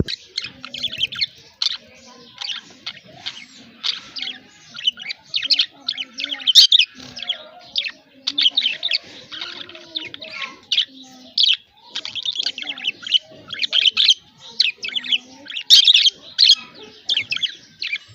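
Budgies chirping and warbling: a continuous stream of quick, high chirps with only brief pauses.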